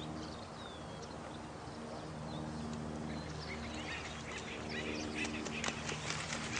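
Nature ambience of steadily running water under a low steady hum, with birds calling in short chirps that grow busier in the second half.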